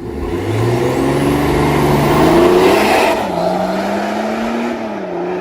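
A car engine revving up for about three seconds, then dropping back and held at steady revs, as launch control holds the engine ready for a launch.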